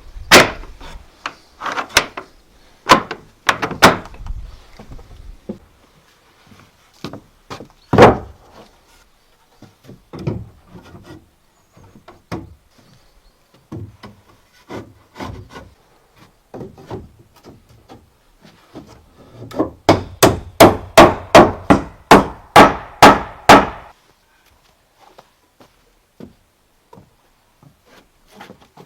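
A tool striking wood: scattered single knocks with a rubbing scrape between them, then near the end a quick run of about a dozen knocks at roughly three a second.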